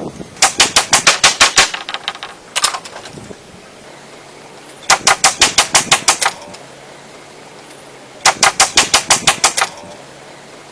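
Woodworking tool striking wood in three quick bursts of sharp, rapid knocks, about seven a second, with a single knock after the first burst. A faint low hum runs between the bursts.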